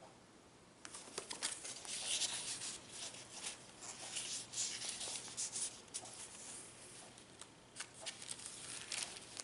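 Paper pages of a handmade junk journal rustling and crinkling as they are handled, with many small clicks and taps, starting about a second in.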